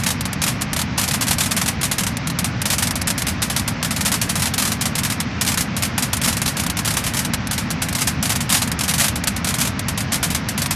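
Wood-burning fire crackling and popping: dense, rapid crackles over a steady low rumble.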